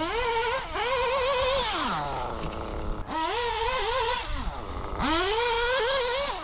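Small nitro RC car engine revving hard three times: the pitch climbs quickly, holds high for about a second with a slight waver, then drops back as the throttle comes off.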